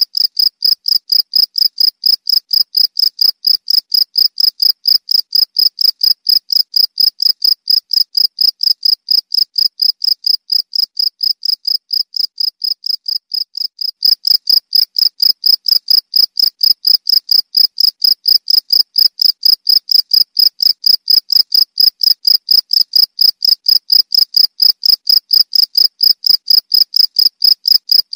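Cricket chirping in a fast, even run of short high-pitched chirps, several a second, a little softer just before the middle and louder again after.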